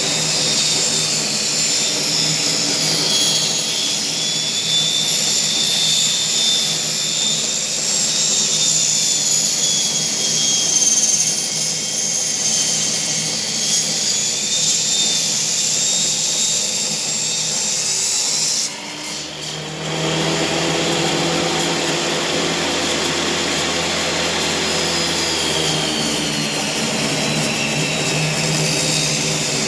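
Power saw running steadily with a high whine while the edges of boards are trimmed even. The sound drops out briefly about two-thirds of the way through, then carries on with its pitch wavering a little.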